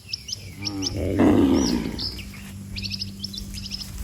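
Small birds chirping over and over in short high calls, with one loud, low, breathy call about a second in, which is most likely a cow lowing.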